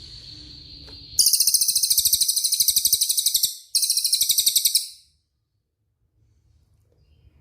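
Songbird song of the fast rolling 'rol speed' kind, played as a training recording. A thin high whistle leads into a loud, very rapid trill lasting about two seconds, then after a brief break a second trill of about a second.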